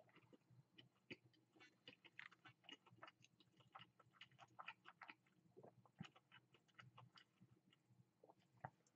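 Faint close-up chewing of a mouthful of crispy fried chicken sandwich: a steady run of small, irregular crackling mouth clicks.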